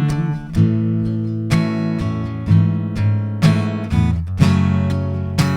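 Acoustic guitar strummed, about one chord stroke a second, each chord ringing on until the next.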